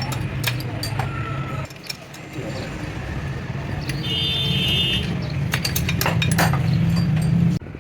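Workshop noise: a steady low machine hum with scattered metallic clinks and knocks, the hum cutting off abruptly near the end.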